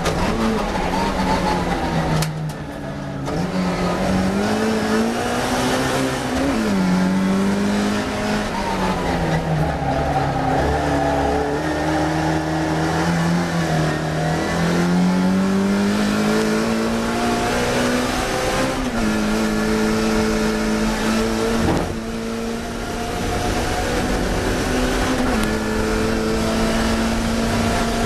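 Classic Mini race car's engine at full racing speed, revving up and down through the gears and corners: the pitch climbs, drops and climbs again. Brief lifts off the throttle come about two seconds in and again about three-quarters of the way through.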